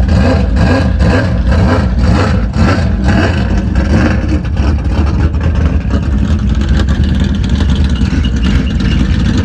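Dirt track race cars' engines running loud as the cars pull out, pulsing about twice a second for the first few seconds, then settling into a steadier drone.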